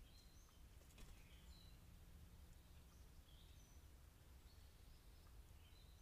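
Faint, scattered short high chirps of songbirds over a steady low hum from the trail camera's microphone, with a single click about a second in.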